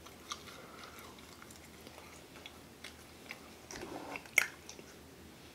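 A person chewing pizza close to the microphone: quiet, scattered small mouth clicks and smacks. About four and a half seconds in comes one sharp tap, much louder than the chewing.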